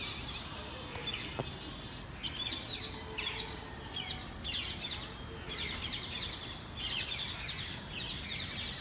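Small birds chirping outdoors in short bursts of rapid twittering, about one burst a second, over a steady low background noise.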